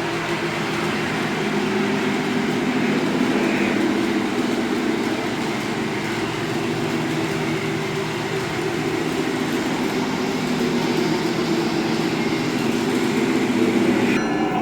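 Model train running on a layout track, a steady mechanical rumble of the locomotive and cars along the rails.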